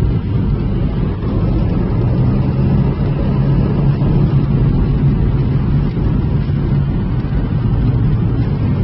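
Car driving, a steady low rumble of engine and road noise with a faint constant engine hum.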